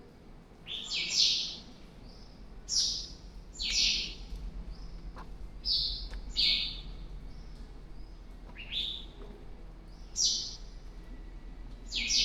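A bird giving short, sharp, high chirps, repeated irregularly every one to two seconds over a low steady background hum.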